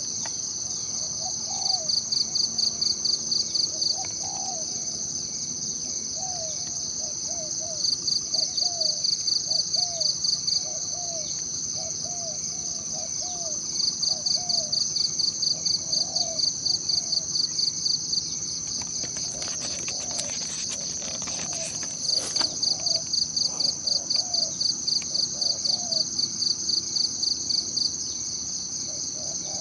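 Insects buzzing steadily at a high pitch, joined every few seconds by bouts of rapid pulsed chirping at about six pulses a second. Faint short calls repeat much lower down, with a few faint clicks about two-thirds of the way through.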